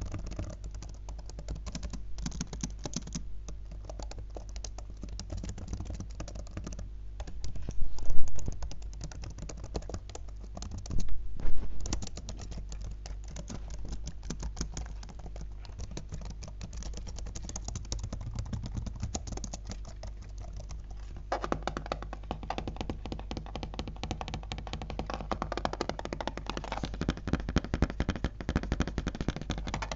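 Fast fingertip tapping and typing on a laptop, a dense run of rapid clicks. Two louder bursts come about 8 and 11 seconds in, and from about 21 seconds in the tapping gets fuller and louder.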